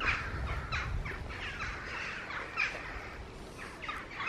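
Birds calling outdoors: a run of short calls, a few each second, each falling in pitch. A low rumble sits under the first second.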